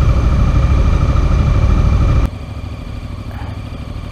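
Motorcycle engine idling with a steady low rumble. About two seconds in the level drops suddenly and a quieter idle carries on.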